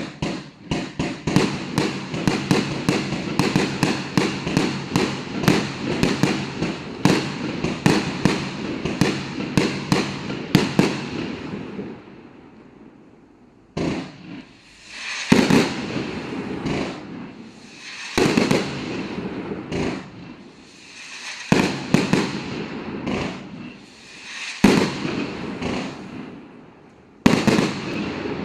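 Gemstone Fireworks 'Nebula' firing: a rapid string of bangs, several a second, for about twelve seconds. After a short lull comes a series of single louder bursts every two to three seconds, each with a fading tail.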